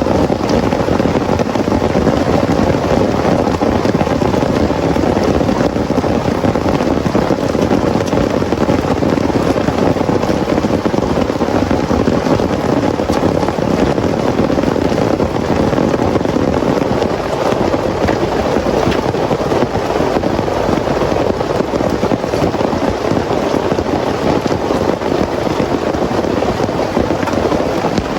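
Heavy rain pouring down, a loud, steady, dense patter of drops with no letup.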